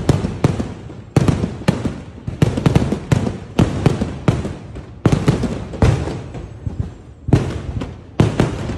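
Daytime fireworks: shells bursting in the sky in rapid succession, loud bangs coming one or more a second, each trailing off into the next. There is a brief lull about seven seconds in before the bangs resume.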